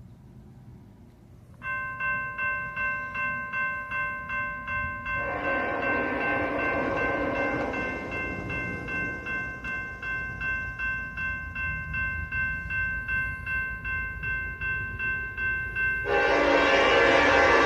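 Horn of two SD70ACe diesel locomotives sounding a steady multi-note chord from nearly two seconds in, its level wavering a few times a second. The locomotives' running noise swells as they approach, with a loud surge near the end as they pass close.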